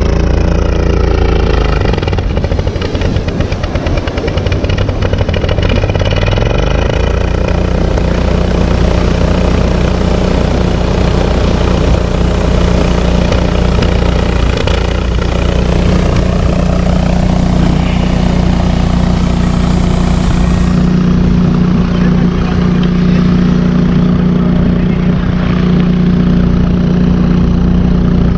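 A motor-vehicle engine running close by, its pitch changing over the first few seconds and then holding steady.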